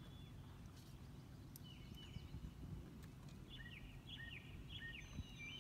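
A wild songbird sings faintly over a low, steady outdoor background rumble. There are a couple of short chirps, then past the middle a run of about five repeated notes, each sliding down in pitch.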